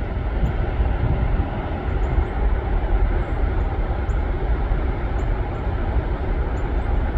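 Floodwater pouring over Holtwood Dam on the Susquehanna River, a steady, heavy rushing noise deepest in the low end. The river is running at about the highest flow seen here after heavy rain.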